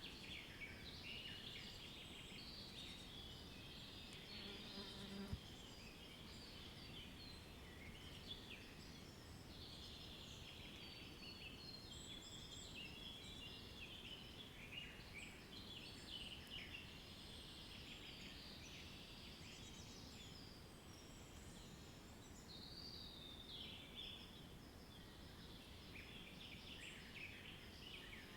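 Faint, dense chorus of high chirping birdsong, many short overlapping calls, over a low background hiss. About five seconds in, a brief low hum ends in a sharp click.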